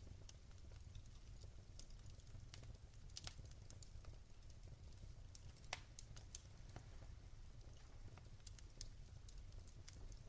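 Wood fire crackling in a fireplace: faint scattered pops and snaps over a low steady rumble, with one sharper pop a little past halfway.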